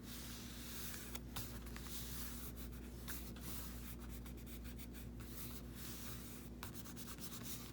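Faint rubbing and light scratchy contacts of paper being handled and smoothed down onto a journal page, over a steady low hum.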